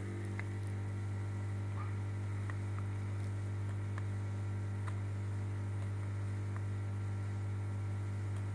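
Steady low electrical hum with a stack of overtones, unchanging throughout, with a few faint light ticks scattered through it.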